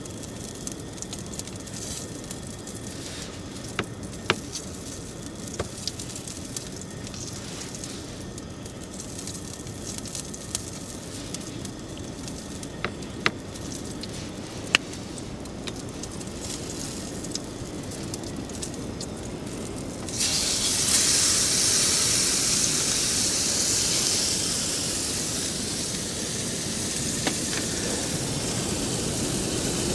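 Steak frying in a pan on a camp gas stove: scattered sharp pops, then about twenty seconds in a loud high sizzle starts suddenly and keeps going.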